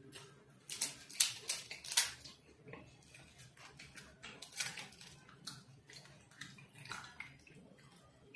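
Close-up eating and food-handling noises: irregular sharp crackles and crunches, loudest and most frequent in the first two seconds, then sparser.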